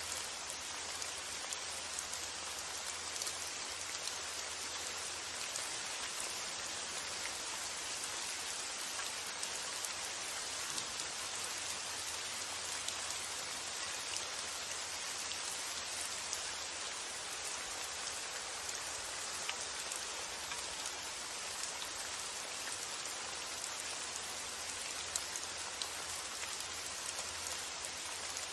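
Steady rain falling, an even hiss with scattered fine drop ticks, over a low steady rumble.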